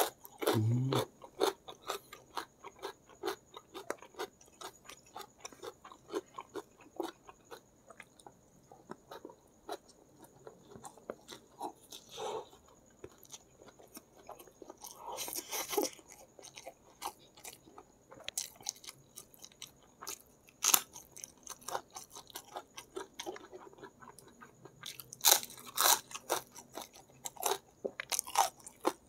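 A person chewing crunchy food close to the microphone, first a bite of raw winged bean, then mouthfuls of noodles and rice taken by hand. It comes as a quick run of small crisp crunches and mouth clicks, with a few louder moments about fifteen seconds in and again near the end.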